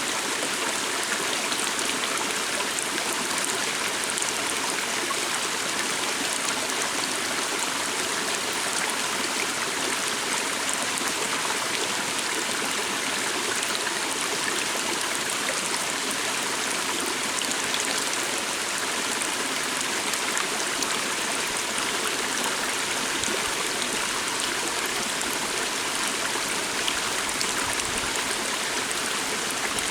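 A small stream flowing over rocks: a steady, even babble of running water.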